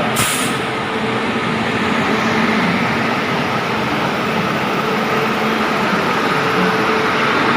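Passenger train hauled by a WAP-7 electric locomotive running in along the platform: a steady rumble and hum. A brief high hiss comes just after the start.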